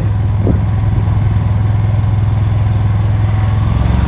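Tractor engine running steadily with a loud, even low drone.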